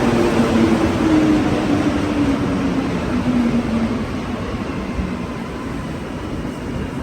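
Rubber-tyred Montreal Metro train slowing down, its motor whine falling steadily in pitch over several seconds and fading, over the rumble of the train.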